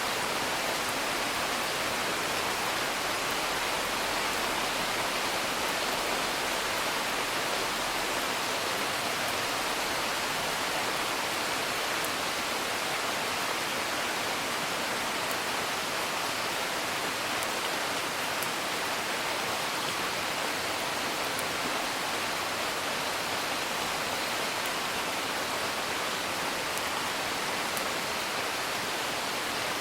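Steady rain heard from indoors, an even hiss, with faint scattered crackles from a wood fire.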